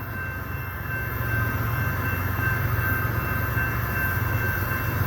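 Approaching CSX diesel locomotives of a loaded coal train, a steady low rumble.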